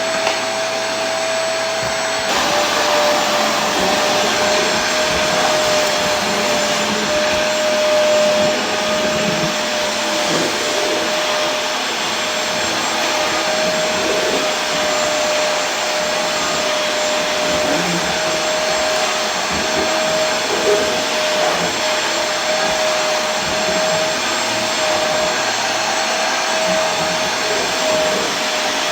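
Vacuum cleaner running continuously: a steady rush of air with a constant motor whine that holds one pitch, shifting only slightly about two seconds in.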